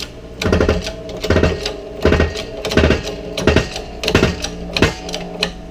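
Rhythmic metal clunks, about seven strokes a little under a second apart, each with a short ring, from working a shop press while pressing a bearing onto a differential part.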